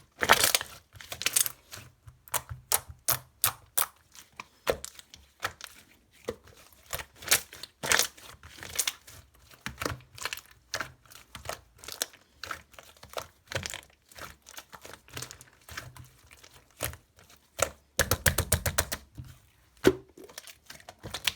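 Chewy, jelly-like slime being squeezed, stretched and poked by hand, giving irregular sharp clicks and pops of trapped air. A dense run of crackling pops comes near the end.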